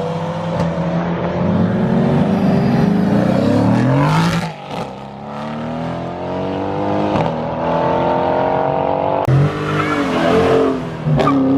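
A car engine revving hard as the car launches and accelerates away, its pitch climbing, dropping back at gear changes about four and nine seconds in, then climbing again.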